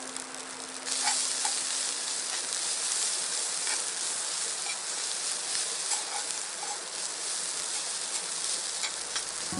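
Food sizzling in a hot pan over a campfire: a steady high hiss with scattered small pops, jumping louder about a second in.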